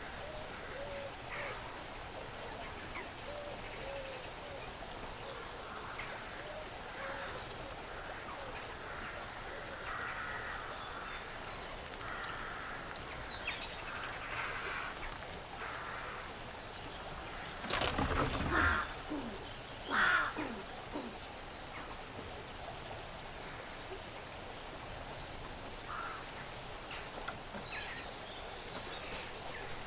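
Woodland ambience with scattered small birds chirping and calling, a thin high trill recurring every several seconds. A short, louder rustling scrabble breaks in about 18 seconds in and again briefly about two seconds later.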